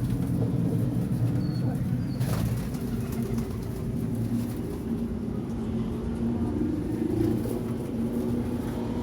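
Domestic pigeons cooing, many together, in a low, continuous murmur.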